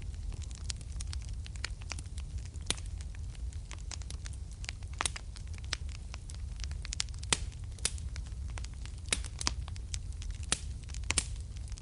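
Fire in a fireplace crackling: irregular sharp pops and snaps, several a second, some louder than the rest, over a steady low rumble.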